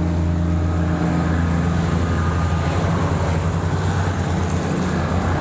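A small engine running steadily, a low even hum with a noisy edge that thins out toward the end.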